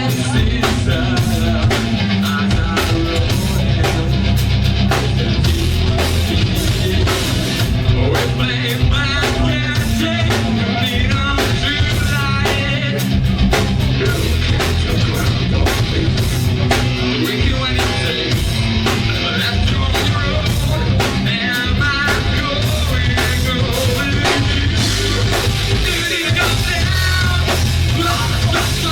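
Live rock band playing loud, with distorted guitars, bass and a drum kit, and a voice singing over them.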